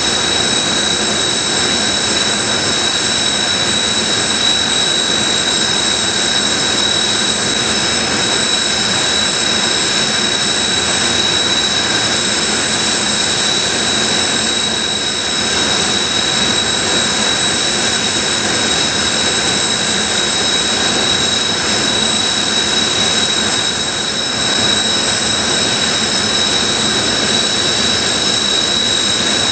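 Kawasaki T-4 jet trainers' twin turbofan engines running on the ground as the jets move off blocks. The sound is a steady roar with a high, even whine over it.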